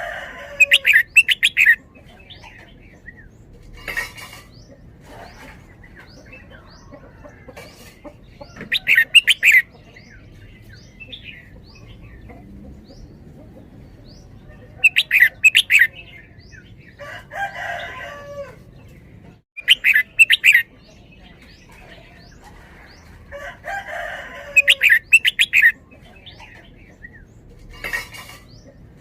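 Red-whiskered bulbul singing short, loud phrases of rapid notes every five or six seconds, some phrases warbled. A few sharp clicks come between the phrases.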